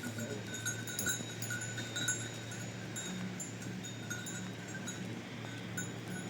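Livestock bells on grazing sheep or goats clinking irregularly, each ring brief, over a steady low hum.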